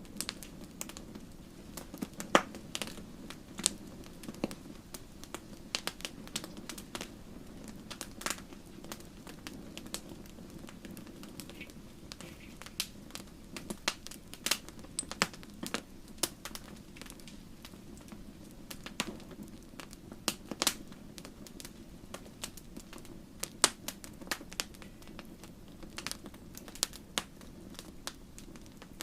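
Wood fire burning in a fireplace: a steady low rush of flame under irregular sharp crackles and pops, a few louder snaps standing out.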